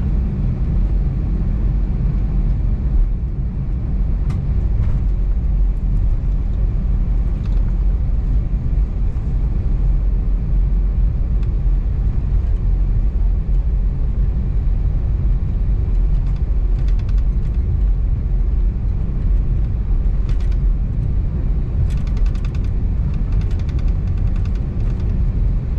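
Steady low rumble inside the cabin of an Airbus A320neo taxiing after landing, its CFM LEAP-1A engines at idle, with a few faint clicks scattered through it.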